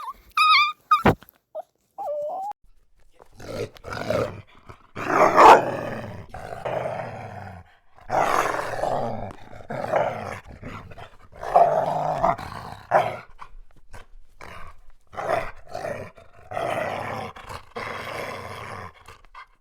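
A dog growling in repeated rough bouts, with a few short high whines near the start.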